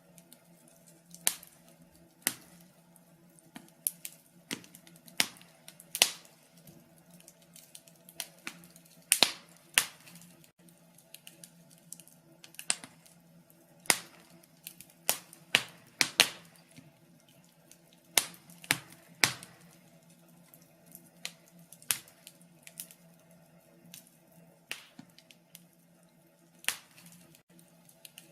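Wood fire in a fireplace crackling, with irregular sharp pops about once or twice a second over a faint steady hum.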